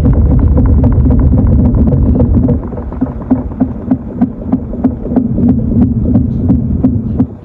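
Panasonic NA-FA80H8 top-loading washing machine running: a loud, steady low rumble that drops about two and a half seconds in to a quieter hum with light knocks repeating a few times a second.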